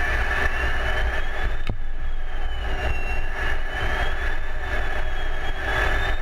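Steady engine and airflow noise inside an F-16's cockpit from its single jet engine: a deep rumble under a hiss, with a thin high whine that slowly rises and falls in pitch. A single sharp click comes a little under two seconds in.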